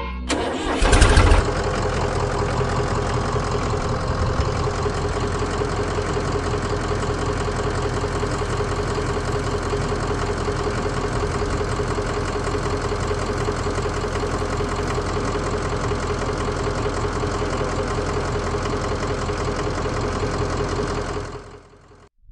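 A motor starts with a short loud burst about a second in, then runs steadily with an even hum and cuts out near the end.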